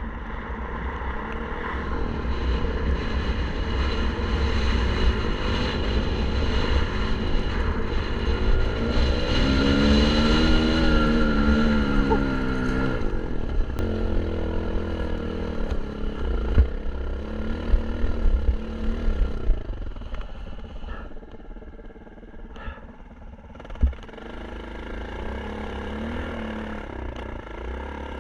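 Kawasaki KLX 150 dirt bike's single-cylinder four-stroke engine running while ridden, its pitch rising and falling with the throttle, loudest about ten seconds in. A few sharp knocks come in the second half.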